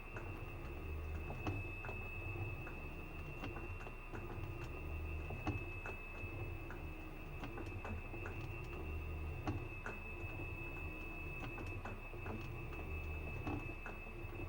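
Washing machine in its spin cycle: a low drum hum that swells and fades every few seconds under a steady high whine, with light ticking clicks throughout.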